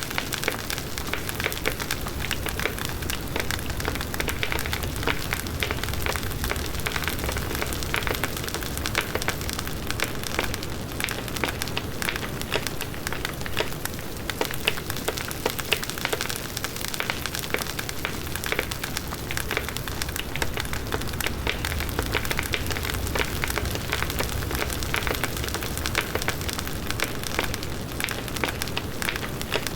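Large wood bonfire burning: dense, continuous crackling and popping of the burning wood over the low rush of the flames.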